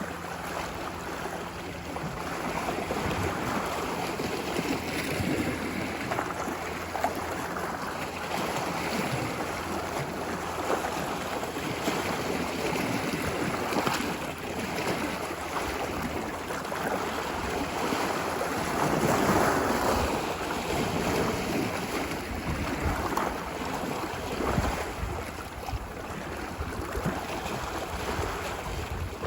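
Ocean surf washing ashore in a steady wash, with gentle swells in loudness and one fuller wave a little past the middle.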